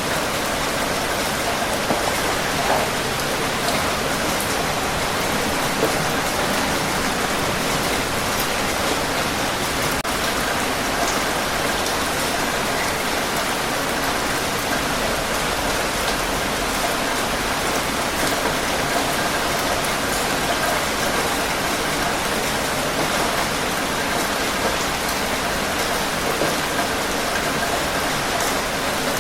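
Steady rain falling on a surface, an even wash of noise with scattered individual drop taps.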